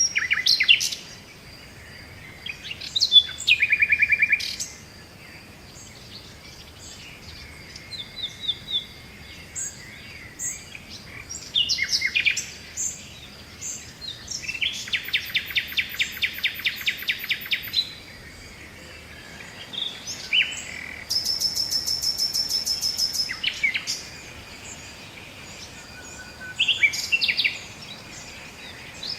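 Birdsong: several birds chirping and calling in short high phrases, with two long rapid trills in the middle.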